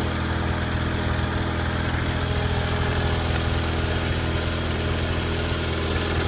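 2001 Ford Focus 2.0 SOHC inline-four engine idling steadily, with no change in speed.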